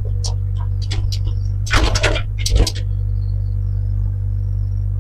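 Heavy equipment's engine running steadily with a low drone, with a short clatter of loud knocks about two seconds in.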